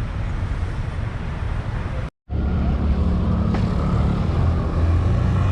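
Steady road traffic noise, with the low rumble of passing cars and buses. It cuts out completely for a moment about two seconds in.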